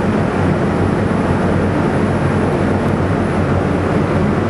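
Nitrous-equipped small-block Chevy V8 running loud on an engine dyno, holding a steady pitch.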